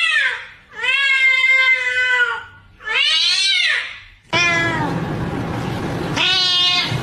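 A cat meowing over and over in long, drawn-out calls that bend up and down in pitch, about five in all. About four seconds in, a steady background noise comes in under the last two meows.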